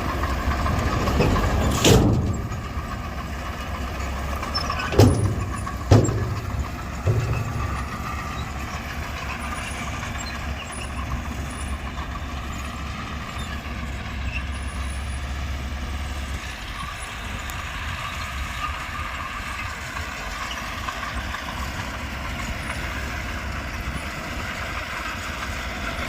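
Small crawler bulldozer's diesel engine running steadily under work, with four sharp metallic clanks in the first seven seconds. The low part of the engine rumble eases about two-thirds of the way through.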